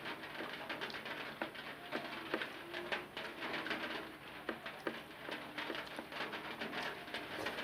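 Close-miked eating sounds of rice and egg curry: rapid irregular wet clicks and smacks of chewing and mouth noises. Short low steady notes come in now and then in the background.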